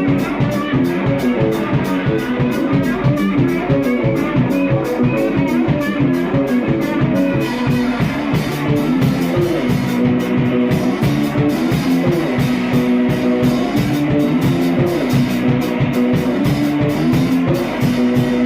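Rock music: guitar and drum kit playing with a steady beat.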